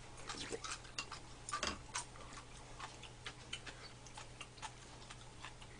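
Close-miked chewing of tteokguk rice cakes: quiet, irregular wet mouth clicks and smacks, a little louder about a second and a half in.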